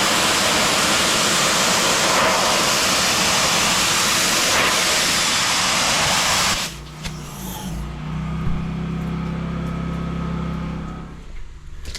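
A pressure washer lance spraying, a loud steady hiss that cuts off suddenly a little over halfway through. After that the machine's engine keeps running with a steady low hum, which drops away shortly before the end.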